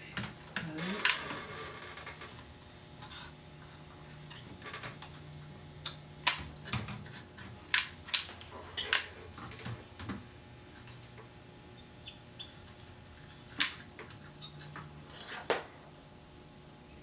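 Irregular sharp clicks and light taps of small parts and hand tools being handled on an electronics workbench during component replacement.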